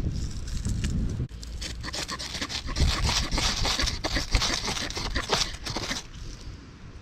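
Scraping and rustling of firewood and kindling being handled, with dense irregular clicks and crackles from about a second and a half in.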